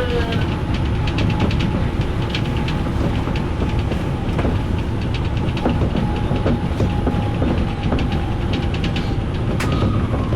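Odakyu electric commuter train running at speed, heard on board: a steady rumble with many quick clicks of the wheels over the rails and a faint steady whine. A single sharp clank comes near the end.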